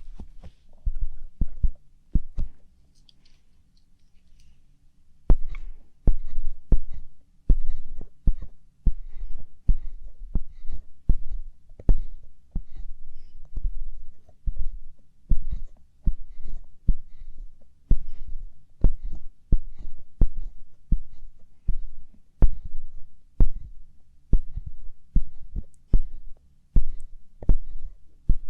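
Light-up ear pick scraping and tapping in a microphone's ear, a steady series of muffled, bass-heavy strokes with small clicks, about one or two a second. The strokes pause for a couple of seconds near the start.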